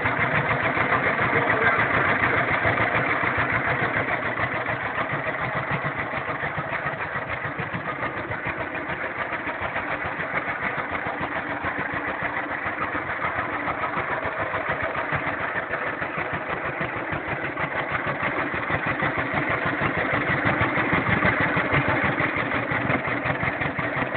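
1941 John Deere H tractor's two-cylinder engine running steadily, its firing strokes coming as a rapid, even beat.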